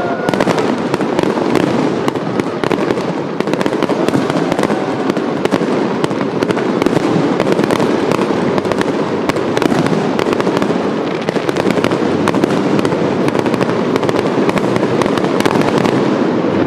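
Fireworks display in a dense, continuous barrage: many bursts and crackling reports every second, without a break.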